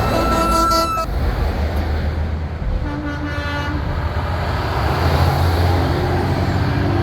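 Big-rig truck air horns sounding as trucks pass: one horn blast cuts off about a second in and a second, shorter blast comes around three seconds in. Diesel engine rumble runs under it, growing louder toward the end.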